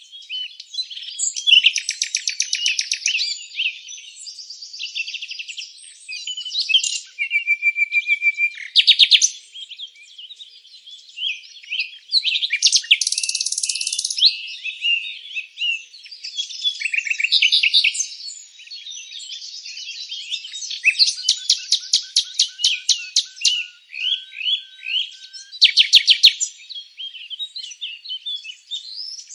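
Several songbirds singing and chirping at once: rapid trills, quick runs of repeated chirps and short whistled notes overlap one another without a break.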